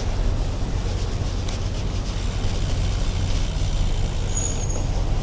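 Street traffic heard from a moving bicycle: a steady low rumble of vehicles and wind across the microphone. A brief high squeak comes about four and a half seconds in.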